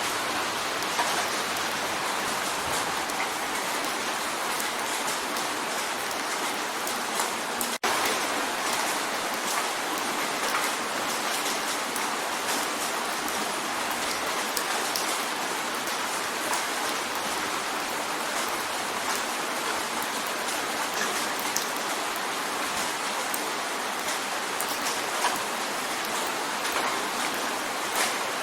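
Steady rain drumming on a window pane: a dense, even hiss of rain with many small individual drop taps. The sound cuts out for an instant about eight seconds in.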